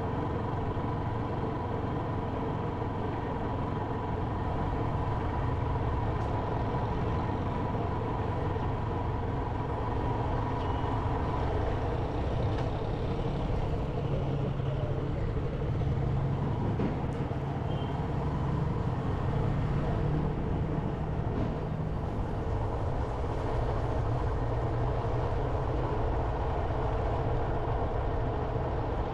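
Motorcycle engine running steadily while riding along a street, mixed with road and wind noise, with a low engine note that rises a little about halfway through.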